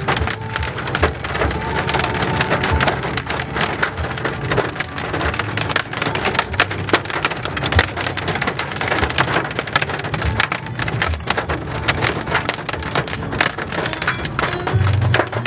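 Hailstones pelting down in a dense, constant clatter of hard impacts.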